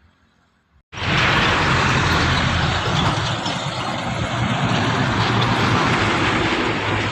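Truck engine and road noise, loud and steady, cutting in suddenly about a second in after near silence.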